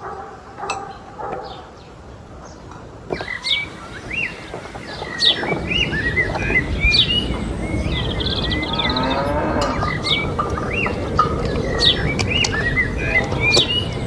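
Cow mooing, with birds chirping again and again over it; the lowing gets louder about five seconds in.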